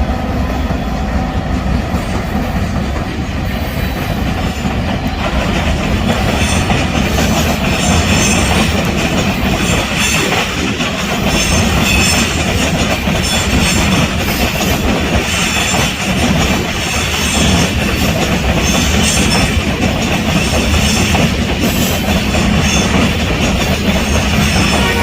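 Freight train's cars rolling past close by: a steady rumble with the clatter of wheels over the rail joints. From about six seconds in, a high metallic ringing from the wheels comes and goes.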